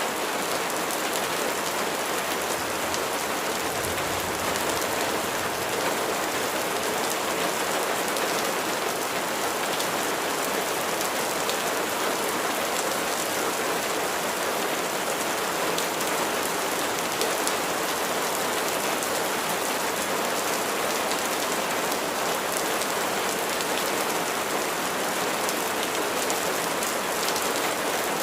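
Steady rain falling, a dense, even patter of raindrops that holds at one level throughout.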